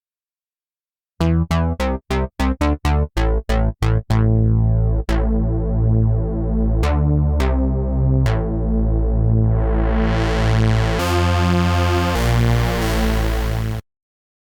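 Cherry Audio P10 software analog polysynth playing a bass preset: a quick run of short staccato notes, then held low bass notes changing pitch several times. About two-thirds of the way through the tone turns bright and buzzy as the filter opens, and it cuts off suddenly near the end.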